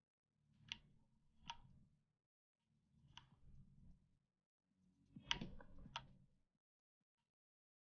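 Faint computer mouse clicks, about five spread out and unevenly spaced, each with a low scuffing of the mouse sliding on the desk.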